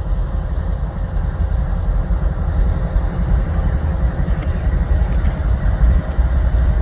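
Freight train passing, a steady low rumble of wheels on rails with no sudden changes.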